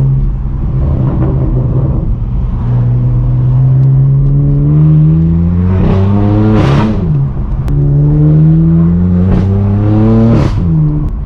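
Straight-piped BMW M4 F82 twin-turbo inline-six exhaust pulling hard, its note rising in pitch under acceleration and dropping sharply at an upshift about six and a half seconds in. It climbs again and drops at a second upshift near the end, with a brief crackle at each shift.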